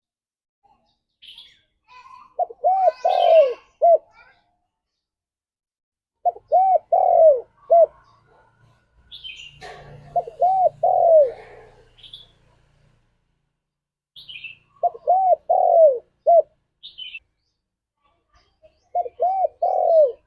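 Spotted dove (tekukur) cooing: a phrase of about four low, arched coos, repeated five times at intervals of roughly four seconds. Short high chirps from another bird come just before several of the phrases.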